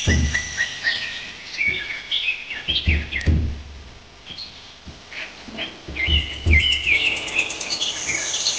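Small birds chirping in quick, repeated short calls, thinning out briefly in the middle, with a few dull low thumps underneath.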